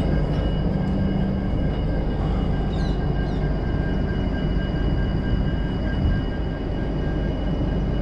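Steady rumble of a moving passenger train, the Telangana Express, heard from an open coach door: wheels running on the rails with a rush of air, and a thin steady whine above it.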